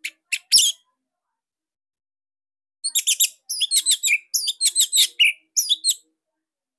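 Orange-headed thrush (anis merah) singing: a couple of short high chirps, then after a pause a fast, sharp run of high chirping notes lasting about three seconds, the loud, tight-packed song used as a training master for captive birds.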